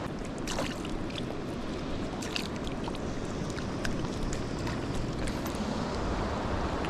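Steady rush of flowing river water, with a few faint light ticks scattered through it.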